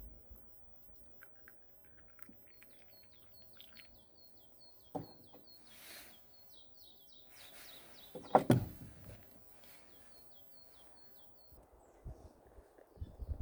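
A bird calling in two runs of short, high chirps at about four a second. Two sharp knocks break in, the louder one about two-thirds of the way through.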